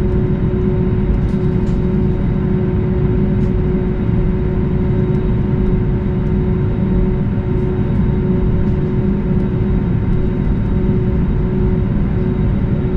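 Steady cabin noise inside an Airbus A320neo on the ground after landing: a constant deep rumble with a steady hum over it.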